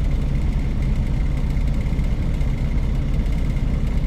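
Truck engine running with a steady low drone and a faint steady whine above it.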